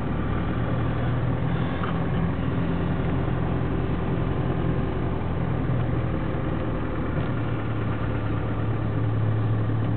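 1997 Land Rover Defender 110's engine running steadily as it drives, heard from inside the cab.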